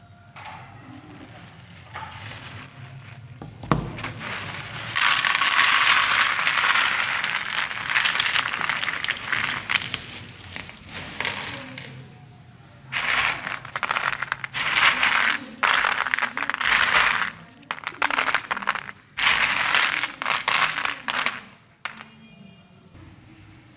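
Dry papadum crunching and crackling as a meat grinder crushes it. The noise is loud and continuous for several seconds, then comes in a run of separate bursts that stop near the end.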